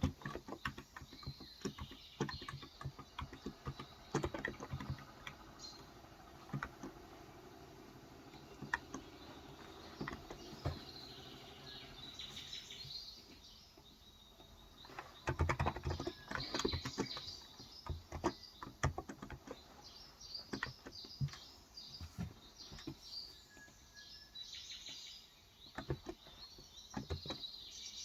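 Typing in bursts on a Cox Endeavor electrostatic-capacitive (Topre-style) tenkeyless keyboard with 35 g switches, soft rapid key clacks. Birds chirp in the background, more so in the second half.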